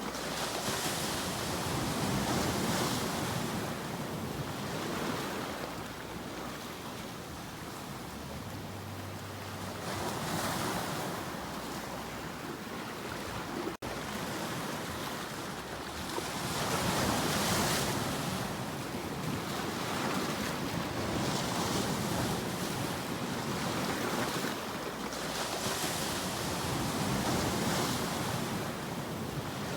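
Ocean waves washing in, swelling and easing every few seconds, with a momentary dropout near the middle.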